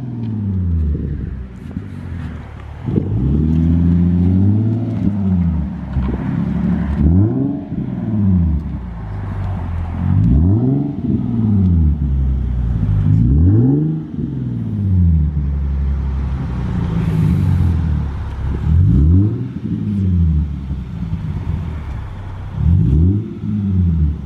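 Nissan 370Z Nismo's 3.7-litre V6 running with a muffler delete, revved over and over in short blips, each rise in pitch dropping back to idle.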